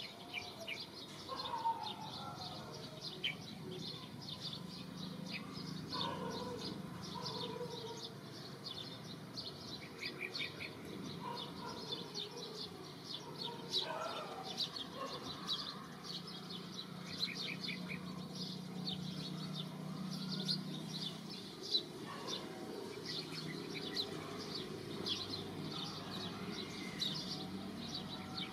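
Small birds chirping continuously in quick, short, high notes, with a few lower falling calls every several seconds and a steady low hum underneath.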